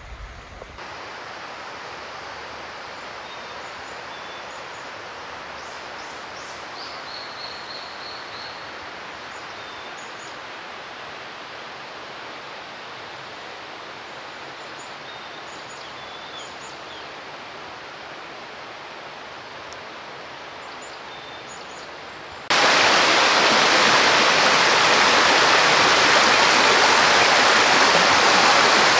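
Steady rush of running water, like a stream, with a few faint bird chirps. About three quarters of the way through it cuts suddenly to a much louder, closer rush of water.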